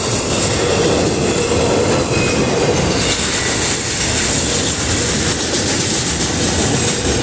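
Double-stack intermodal train's well cars rolling past, a steady, even noise of steel wheels on the rails.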